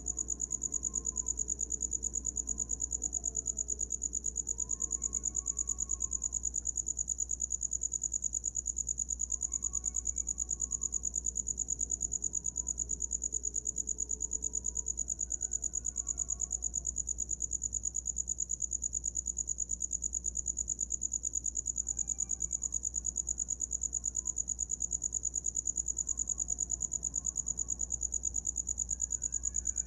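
Cricket chirping without pause: a steady, high-pitched, rapidly pulsing trill. Faint, short, gliding calls sound here and there in the background.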